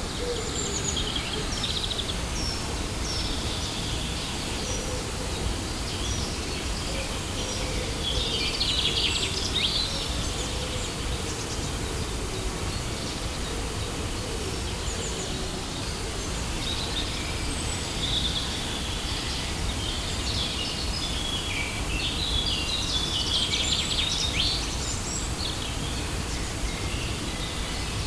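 Steady rush of a waterfall, with small birds chirping and singing over it; the birdsong is busiest about a third of the way in and again in the last third.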